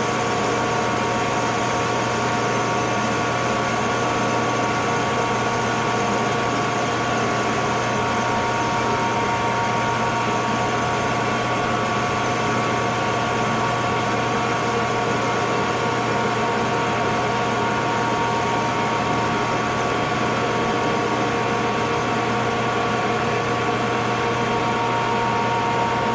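Metal lathe running steadily, a constant hum with several held tones, while a parting tool is fed into a small turned part to bring it down to diameter.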